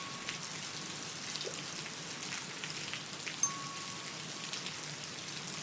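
Steady rain falling in a background ambience track, an even hiss with scattered drop ticks, and one brief sharper sound about three and a half seconds in.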